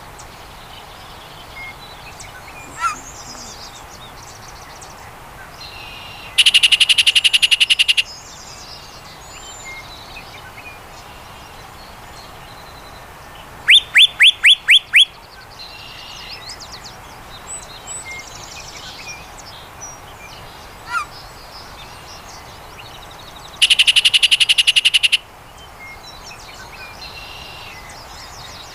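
Yellow-breasted chat singing in widely spaced phrases: a fast, dense rattle about six seconds in, a run of six quick upward-sweeping whistles near the middle, and another fast rattle a few seconds before the end. Faint chirps from other birds sound in the gaps.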